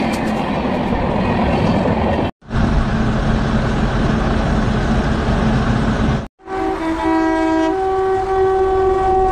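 Indian Railways train sounds edited together: steady rolling rumble as a train moves past, broken twice by sudden cuts. Then a train horn sounds a long, steady multi-tone blast over the rumble.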